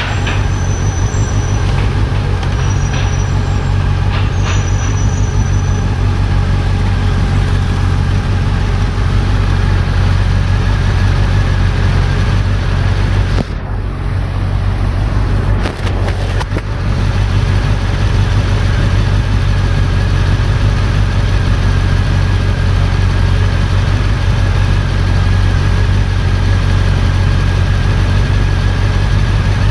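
Honda CB400 Super Four's inline-four engine running at a steady, unchanging speed, with a brief dip in loudness about halfway through.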